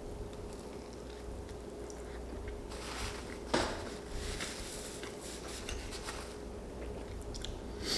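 Quiet eating sounds: food being handled and chewed with rustles, a sharp clink or knock about three and a half seconds in and another near the end, over a faint steady hum.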